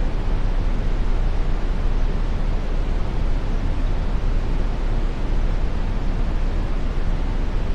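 Brown noise: a steady, unchanging rumbling hiss, heaviest in the low end and thinning toward the top.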